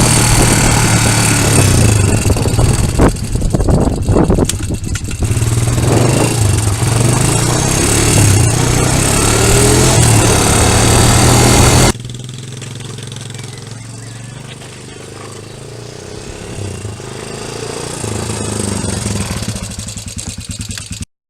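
Honda Fourtrax TRX250 quad bike's single-cylinder four-stroke engine running, loud for the first half, then abruptly much quieter from about halfway through, and cut off just before the end.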